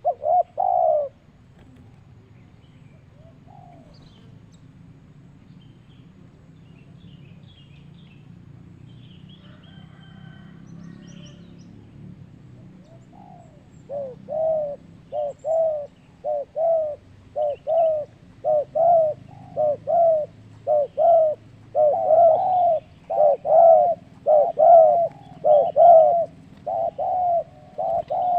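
Zebra dove (perkutut) cooing: a couple of short notes at the start, then, from about halfway, a long run of quick coos, about two a second. Faint chirps from another bird come in the quiet stretch before the cooing resumes.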